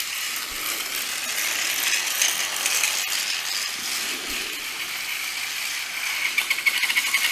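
Battery-powered Plarail toy train running, its small motor and plastic gearbox giving a steady high whirring rattle. It starts abruptly and holds steady, getting slightly buzzier near the end.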